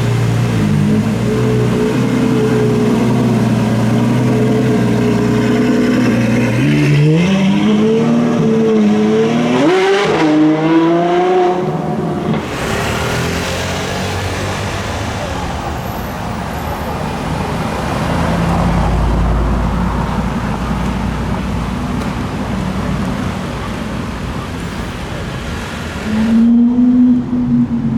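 Sports car engine running at a steady low speed, then accelerating with its pitch climbing in two pulls about a quarter of the way in, fading into a rushing noise as it goes. Another engine note rises sharply near the end.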